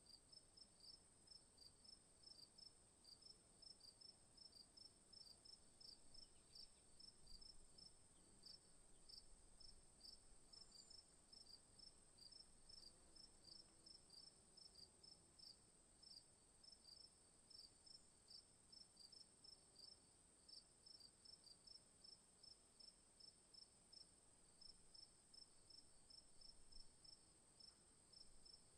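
Faint insects chirping: short chirps repeating evenly a few times a second over a continuous high-pitched trill.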